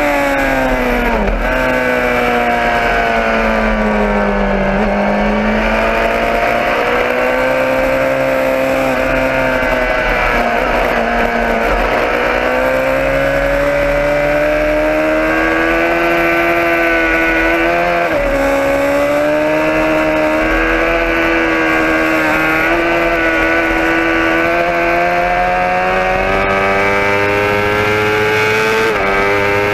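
Motorcycle engine running under way, its pitch sinking and rising slowly with the throttle, with brief breaks in the note about a second in, around the middle and near the end.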